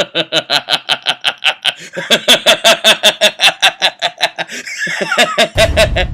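A man's long, rhythmic villain laugh, short 'ha' syllables about five a second, getting louder partway through. Low drum-heavy music comes in near the end.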